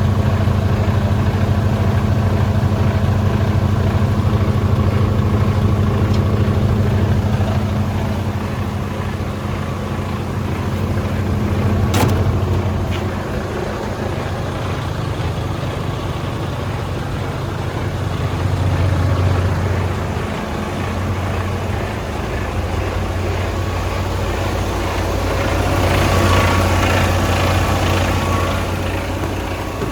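Mercedes-Benz Arocs 2643 truck's six-cylinder diesel engine running steadily with a low hum that swells a little in level now and then, and a single sharp click about twelve seconds in.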